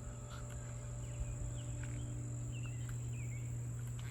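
Steady high-pitched insect drone with a steady low hum underneath, and a few faint, short bird chirps about two to three seconds in.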